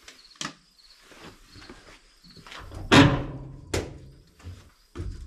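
Scattered knocks and clicks around the old truck, with one loud clunk about three seconds in that rings briefly and a second sharp knock just after, before the engine is cranked.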